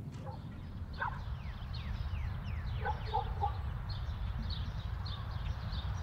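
Birds calling: high chirps that fall in pitch, a few short lower calls about a second in and again around three seconds in, then quick repeated high chirps near the end, over a low steady background rumble.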